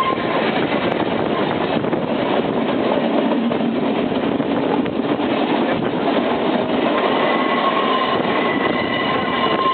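Manx Electric Railway tramcar running along the line: a continuous rumble and rattle of wheels and car. A steady high-pitched whine sounds over it briefly at the start and again from about seven seconds in.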